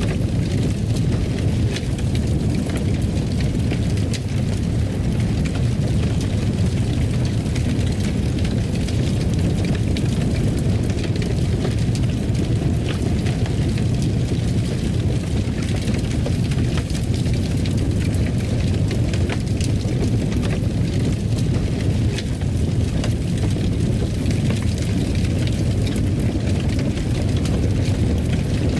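Fireplace fire burning: a steady low rumble of flames with frequent small crackles and pops from the burning wood.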